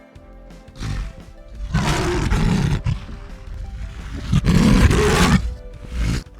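An animal roaring in about four rough calls, two of them long, over soft background music.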